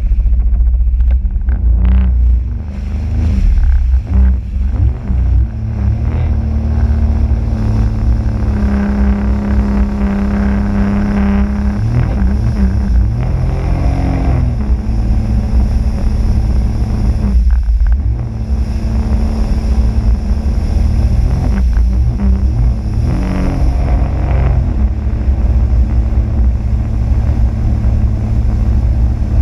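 Sea-Doo RXP-X 260 jet ski's supercharged three-cylinder engine running under way. Its note rises and falls a few times as the throttle changes, over a heavy low rumble.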